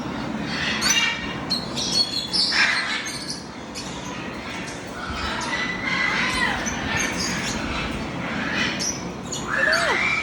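A flock of captive parrots squawking and chattering, with many short, sharp calls overlapping. Near the end comes a whistled call that rises and then falls.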